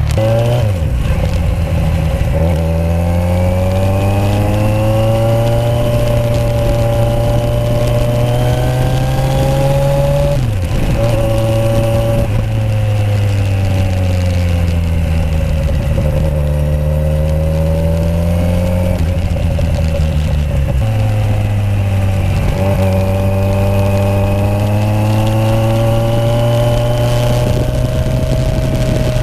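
Kawasaki Z1000's inline-four engine through Toce aftermarket exhausts, revving as the bike is ridden. The pitch climbs for about ten seconds and drops suddenly, then falls and climbs again in long sweeps.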